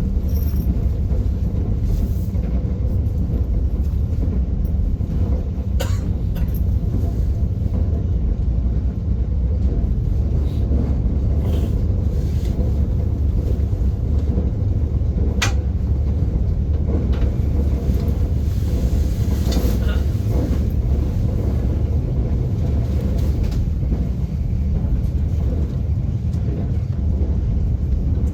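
Train running along the track, heard from inside the carriage: a steady low rumble with a few sharp clicks, one about six seconds in and one about halfway.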